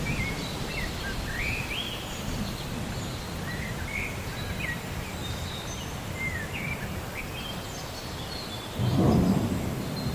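Steady rain with low rumbling thunder, and birds chirping over it throughout. A louder roll of thunder swells up near the end.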